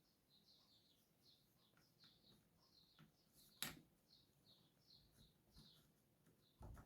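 Near silence with a faint bird chirping in the background, short falling chirps about two or three a second. There is one sharp click about three and a half seconds in, and low handling knocks start near the end.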